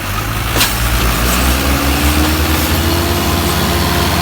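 Tractor engine running loudly close by, a steady low rumble whose pitch climbs slowly as it revs up. A single sharp click sounds about half a second in.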